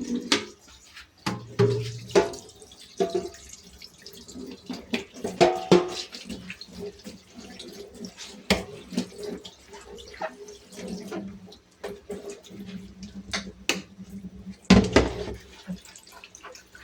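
Washing at a kitchen sink: water splashing and dripping, with repeated clinks and knocks of items being handled, and a loud cluster of knocks near the end.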